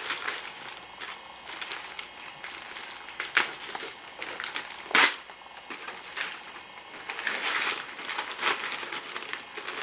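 Gift wrapping paper crinkling and tearing as a present is unwrapped, in a run of short rustling bursts with a sharp snap about five seconds in.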